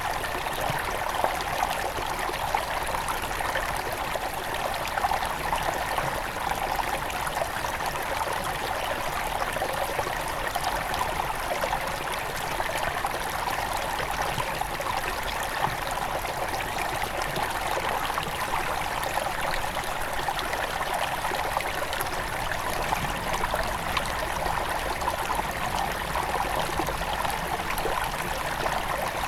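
Shallow forest river babbling and trickling over stones, a steady rush of flowing water with small splashes and gurgles.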